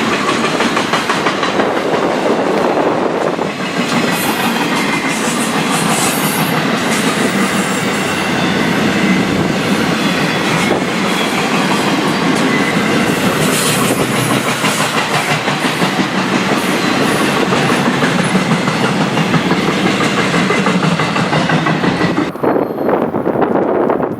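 Railroad cars of a long circus train rolling past at speed, wheels clacking steadily over the rail joints. About 22 seconds in the sound drops away suddenly as the end of the train goes by, leaving wind on the microphone.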